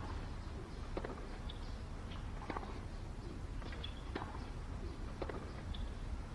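Slow footsteps, a light knock every second or so, over a low steady hum.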